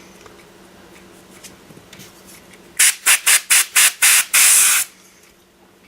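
Quick, rhythmic brushing strokes sweeping dirt off a brushless RC motor part: about six short hissing strokes, then one longer one.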